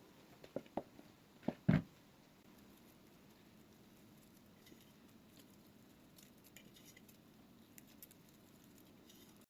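Kitchen utensils knocking sharply a few times in the first two seconds, the last knock the loudest, then only faint small ticks and scrapes.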